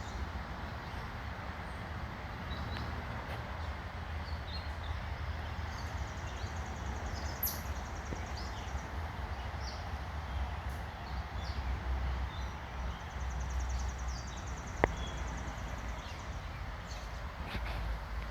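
Backyard birds chirping and calling in short, scattered notes, with two buzzy trills, over a steady low rumble. A single sharp click sounds about fifteen seconds in.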